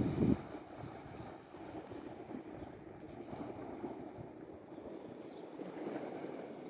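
Wind buffeting the microphone, heaviest in the first half-second, over a steady wash of sea water at the shore.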